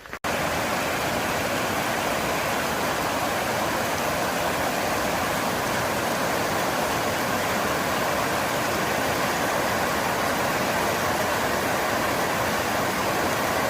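Steady rushing of a waterfall: an even, unbroken hiss of falling water at a constant level, starting and stopping abruptly.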